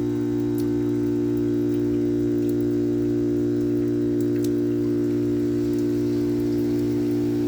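Carrier Comfort 14 heat pump's compressor running with a steady, even hum during its defrost cycle, with a few faint ticks of melt water dripping from the outdoor coil.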